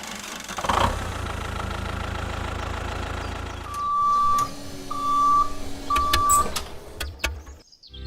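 An engine running steadily, with three short beeps at one pitch, each about half a second long and about a second apart, over it partway through; it cuts off suddenly near the end.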